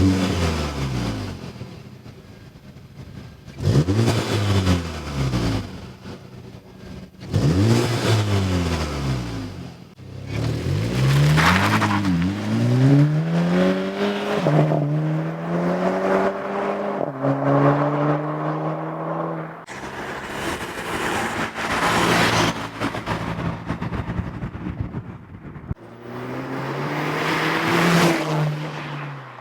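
Volkswagen MK7 GTI 2.0-litre turbocharged four-cylinder running through an AWE Touring Edition cat-back exhaust with the stock downpipe, revved repeatedly. Three quick blips in the first ten seconds each fall back toward idle. A longer rev then climbs and is held at steady engine speeds, followed by a rougher stretch and one more rev that drops back near the end.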